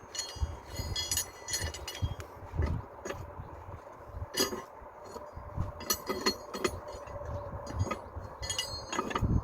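Hard objects clinking and knocking together, a scattered series of strokes with a brief high ring on each, over a faint steady hum.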